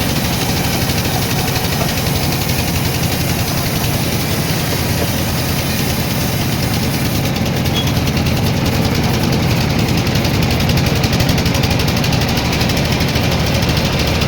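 Sawmill machinery running steadily: an engine with a low, even hum and no sudden events.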